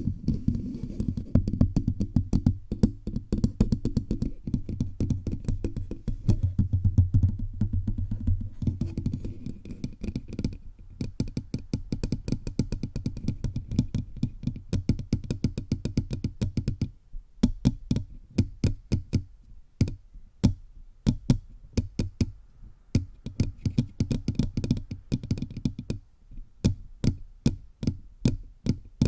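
Fingertips tapping rapidly all over a bare microphone, giving dull, boomy thuds several times a second with a couple of brief breaks.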